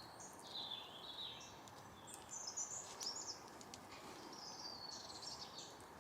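Faint songbird song: short, quick, warbling high chirps in several phrases over a light outdoor background hiss.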